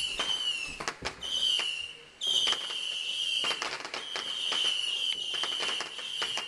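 Whistling fireworks: a high, steady whistle that breaks off briefly twice, with many sharp crackling pops throughout.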